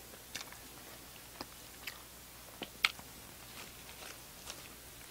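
Close-miked mouth sounds of a person biting into and chewing a small burger: scattered soft, wet clicks, with one sharper click a little under three seconds in.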